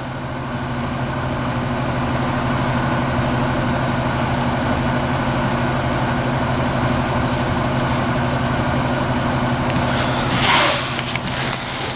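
A large vehicle's engine idling steadily, with a short, loud hiss about ten seconds in.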